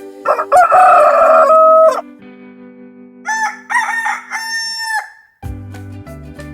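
Rooster crowing: one long, loud crow, then a few shorter, higher calls. Music with a bass beat starts near the end.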